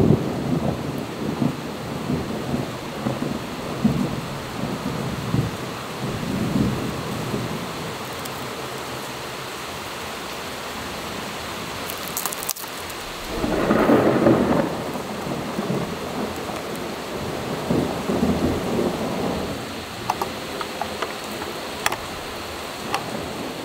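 Steady rain hiss with several low rumbles, the loudest about 14 seconds in. A few light plastic clicks near the end as a straw is pushed into a plastic drink cup's sealed lid.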